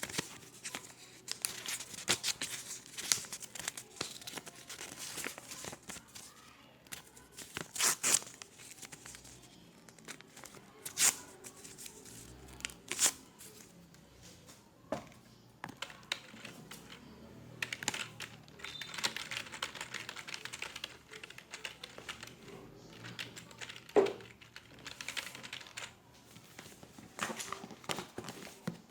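Office ambience: scattered, irregular clicks and taps of keyboards and computer mice, with short bursts of rustling in a small room.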